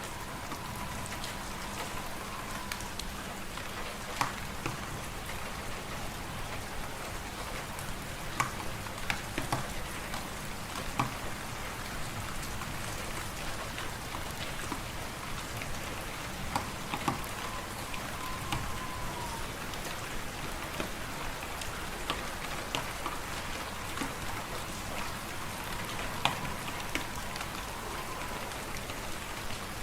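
Fireplace fire crackling: a steady hiss with sharp pops and snaps scattered through it. A faint whistling of wind rises and falls about three times.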